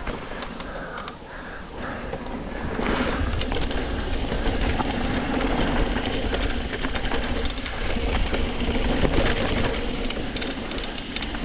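Downhill mountain bike rolling over a dirt trail: tyre noise and a dense rattle of the bike, with a low rumble, growing louder about three seconds in.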